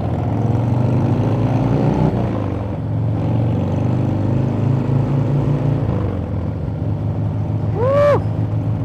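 Harley-Davidson V-twin motorcycle engine running on the road, its pitch rising and falling with the throttle in the first couple of seconds and again later.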